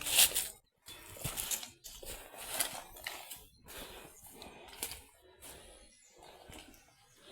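A thirsty cow drinking water from a bucket in a series of irregular gulps and slurps, growing fainter toward the end.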